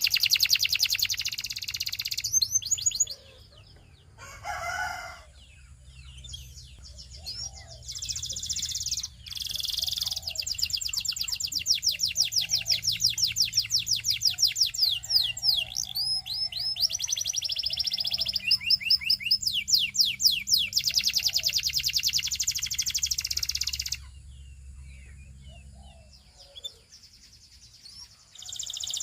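Canary singing long, fast trills of rapidly repeated notes, phrase after phrase with short breaks, going quieter for a few seconds near the end.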